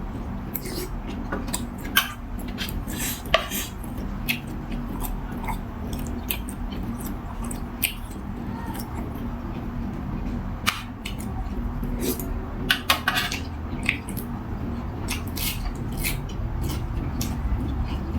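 A person eating beef noodle soup: scattered sharp clicks and clinks of utensils against a bowl, the loudest near the start and again about two-thirds of the way through, over a steady low hum.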